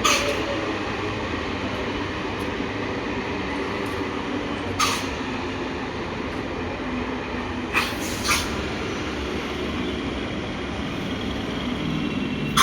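Train running along the track: a steady rumble with a faint hum, broken by a few sharp clanks, two of them close together about eight seconds in.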